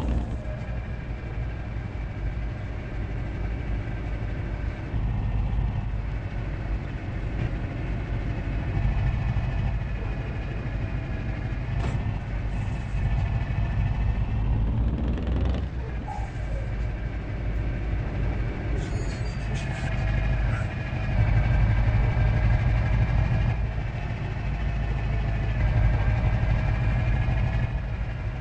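Large truck engine running steadily: a deep low rumble with whining tones above it that drift slightly up and down in pitch.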